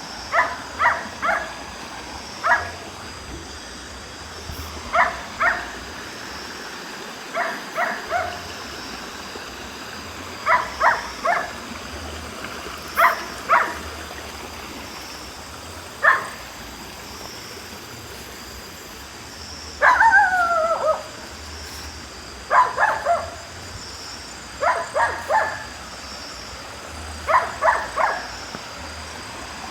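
Barking in short groups of two or three calls every few seconds, with one longer call about twenty seconds in that glides in pitch, over a steady hiss.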